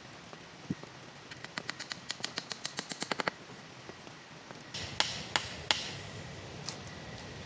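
A run of quick, light taps that speed up, then about two seconds later three sharp knocks in quick succession, over a steady hiss of rain.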